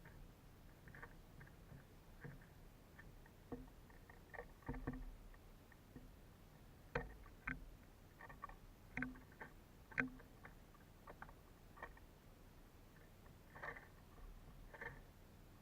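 Irregular faint taps and knocks of birds pecking at a suet feeder, a few sharper knocks between about seven and ten seconds in.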